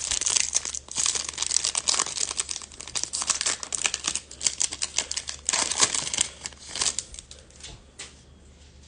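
Plastic packaging crinkling and rustling as trading cards are handled, dense for about seven seconds and then dying down.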